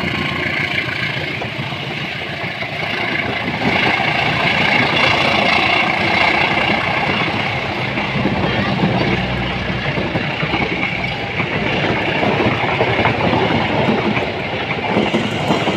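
A train passing close by, its wheels running and clattering steadily over the rails.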